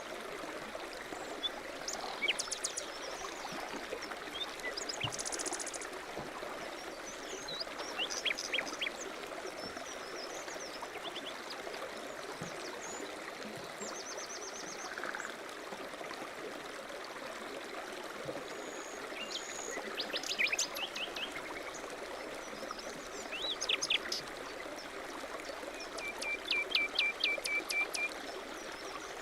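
A stream running steadily, with small birds chirping now and then over it and one bird giving a quick run of repeated notes near the end.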